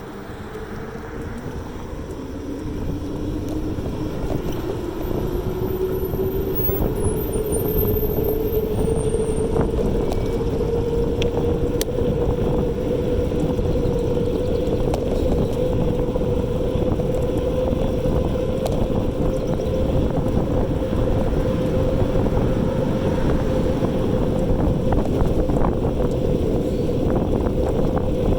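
E-bike's electric motor whining, rising in pitch over the first several seconds as the bike speeds up, then holding a steady pitch at cruising speed, with a steady low rumble underneath.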